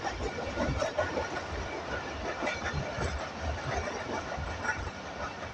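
Passenger train running along the track, heard from aboard: a steady low rumble of wheels on rail with scattered knocks and rattles from the carriage.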